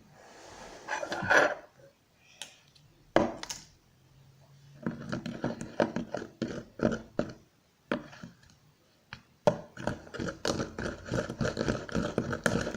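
Perwoll liquid detergent poured from its bottle into a bowl of clear glue, then a spoon stirring the slime mixture, clicking and scraping against the bowl in quick, uneven taps.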